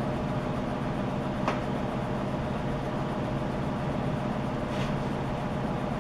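Steady mechanical hum and hiss, with a single light click about one and a half seconds in.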